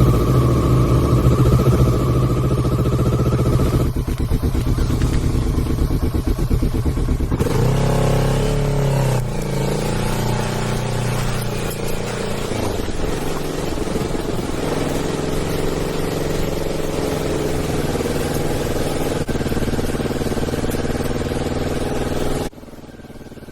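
Motorcycle engine running as the bike is ridden, its note changing about four seconds in and gliding in pitch around eight seconds in as the revs change, then running steadily. Near the end it cuts to a much quieter background.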